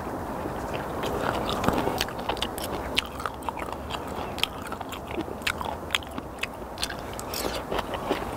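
A man chewing a mouthful of kimchi with his mouth open, making wet smacking clicks several times a second in an irregular rhythm.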